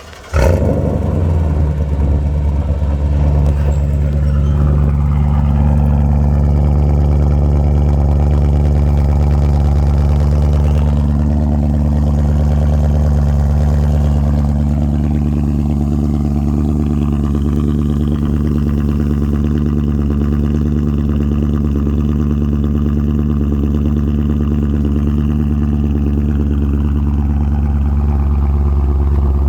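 BMW E39 M5's 4.9-litre S62 V8 on a cold start: it catches about half a second in with a brief flare, then settles into a steady idle.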